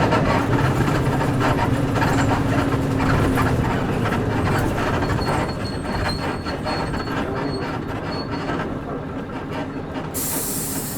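Cabin sound of a Nissan Diesel KC-UA460LSN one-step bus with a PG6 diesel engine. The engine's steady drone fades after about three seconds, while the body and leaf-spring suspension creak and rattle throughout. A burst of air hiss comes near the end.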